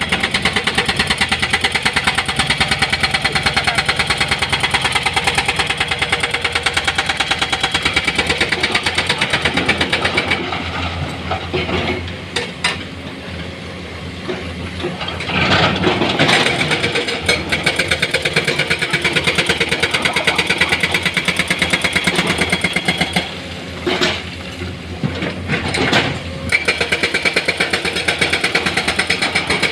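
Heavy earthmoving machine's diesel engine running with a fast, even firing pulse. It drops back twice for a few seconds, and a few sharp knocks come during those lulls.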